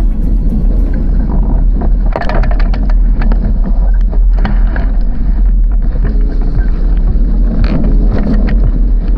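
Strong wind buffeting the microphone aboard a sailing dinghy under way, with splashes and knocks of water against the hull, clustered about two seconds in and again near the end.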